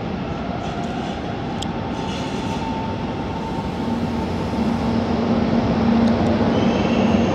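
A train moving on the station tracks: a steady rumble, with a low hum that comes in about halfway and grows louder toward the end.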